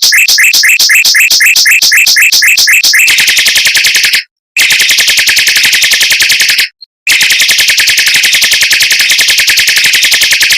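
Mockingbird song of rapid, tight rolls: a rising sweeping note repeated about five times a second, then a very fast, even trill delivered in long bursts with two brief breaks.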